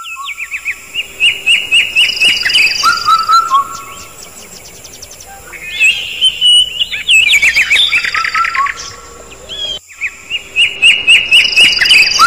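Birds chirping, with several overlapping calls in quick repeated phrases over a steady high-pitched whine. The sound cuts out briefly just before ten seconds in, and the same sequence of calls then starts over.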